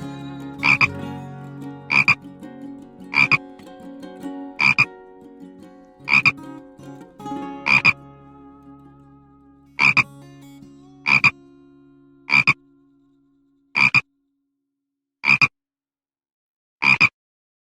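A frog croaking, about a dozen short, sharp calls, one every second and a half or so. A steady low hum underneath fades away about two-thirds of the way through.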